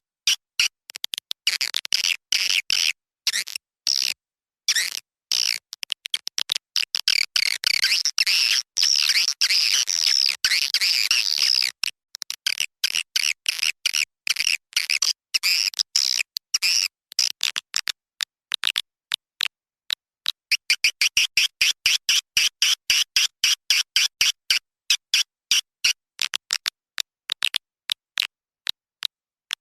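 Swiftlet call recording used as a lure sound for swiftlet houses: rapid trains of dry clicks mixed with high chittering twitters, cutting in and out abruptly with many short gaps.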